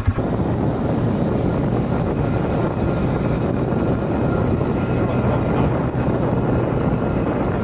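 Quad bike engine leaving its pulsing idle right at the start and running steadily as the bike rides on.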